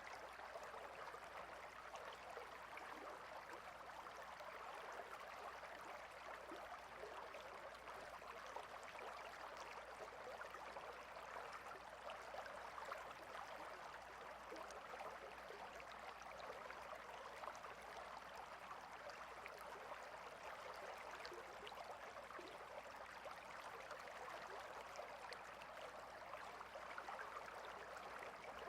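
Stream water running steadily, a faint, even babble without change.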